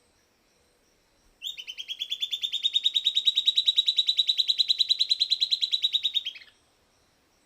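Silvered antbird singing: one long, rapid, even series of about ten notes a second lasting about five seconds, creeping slightly up in pitch and dropping at the very end.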